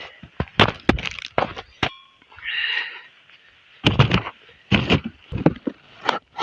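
A series of about a dozen sharp, irregular cracks and knocks in clusters. There is a short ringing clink about two seconds in, followed by a brief hiss.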